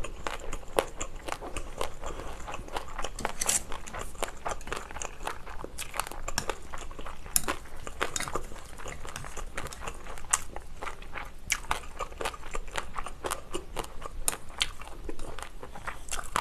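Close-miked chewing and crunching of food, mixed with sharp clicks of chopsticks against a ceramic rice bowl.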